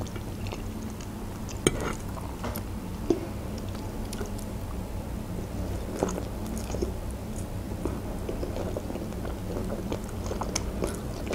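A person chewing and slurping soft boiled noodles close to the microphone, with wet mouth sounds and a few sharp clicks, over a steady low hum.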